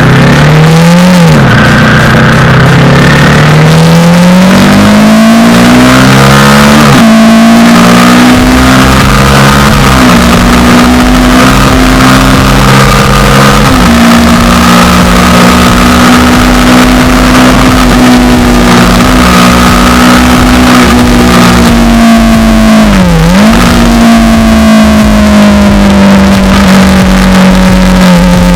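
Sports motorcycle engine accelerating through the gears, its pitch climbing and dropping suddenly at each shift, then running at a steady high pitch for a long stretch with one brief dip and recovery near the end.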